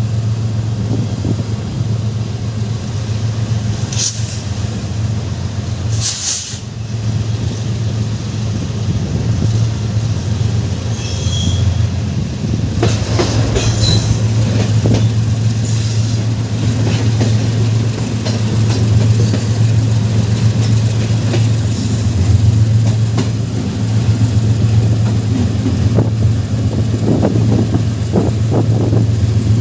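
Passenger train running on the rails with a steady low drone, and a few short high squeals from the wheels about four, six and thirteen seconds in.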